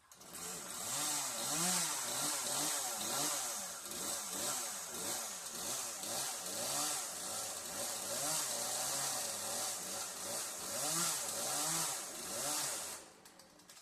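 Chainsaw engine running, its pitch rising and falling over and over as it is revved up and let back down, then stopping near the end.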